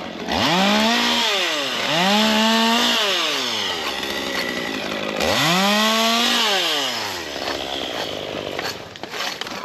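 Two-stroke chainsaw revved up three times, each time climbing to a steady high pitch, holding for about a second, then falling back to idle.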